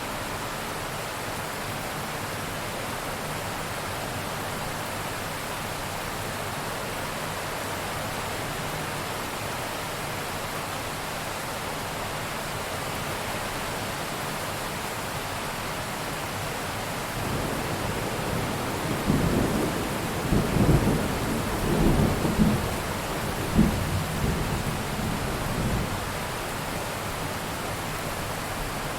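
Steady heavy rain with a roll of thunder in the middle: a low rumble that swells about seventeen seconds in, cracks and booms several times, and dies away before the end.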